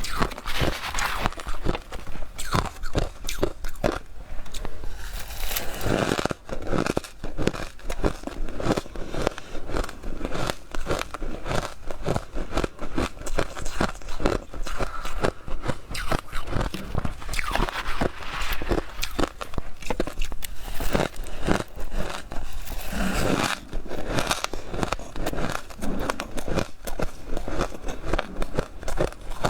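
Someone biting and chewing powdery freezer frost: a dense, irregular run of close-up crunches and crackles.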